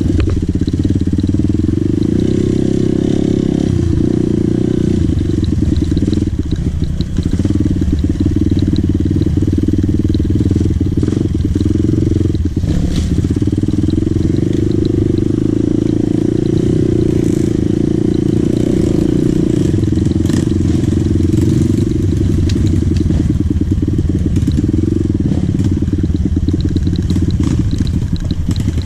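Dirt bike engine running as the bike is ridden, its note rising and falling a little, with frequent short knocks and rattles.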